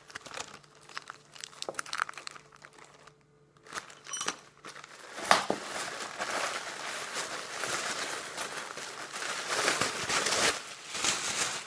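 Plastic packaging crinkling and rustling as parcels are handled and unwrapped, a few scattered rustles at first, then a long stretch of continuous crinkling from about halfway through.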